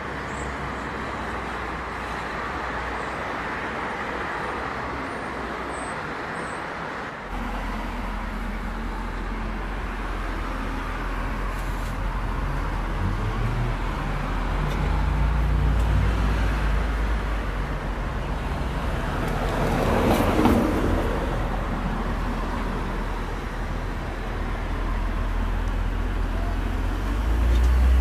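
Street traffic noise for the first few seconds; then, after a cut, a BMW Z4 2.5i's straight-six engine running close by with a steady low rumble, being warmed up after months of standing. The revs swell a couple of times, a brief wash of noise passes about two-thirds of the way through, and the engine gets louder at the end as the car moves off.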